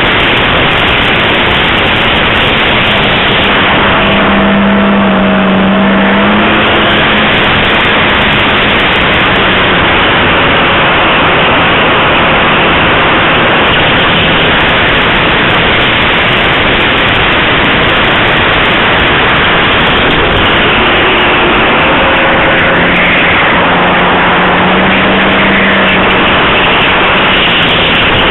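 Geared electric motor and propeller of an RC model plane in flight, heard through a small camera microphone mounted on the aircraft. Heavy wind rush covers the motor, whose hum rises briefly twice, about four seconds in and again about twenty-three seconds in.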